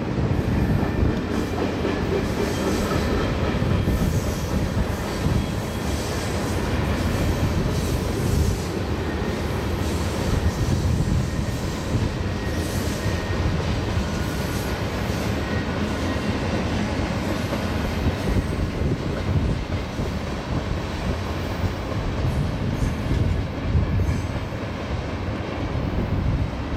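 Loaded freight cars of a mixed freight train rolling past, steel wheels clattering over the rails with some wheel squeal. It is a steady, continuous rumble.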